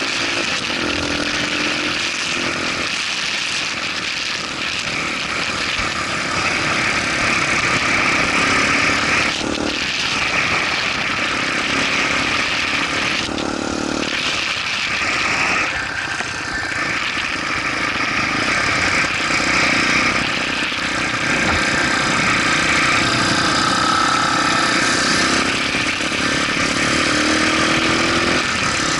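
Motorcycle engine running on the move, its note rising and falling several times as the rider speeds up and eases off, under a steady rushing noise.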